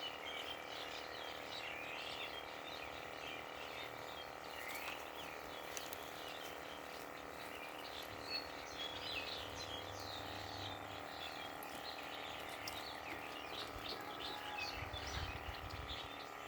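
Outdoor ambience of many short bird chirps scattered throughout, over a steady background hum.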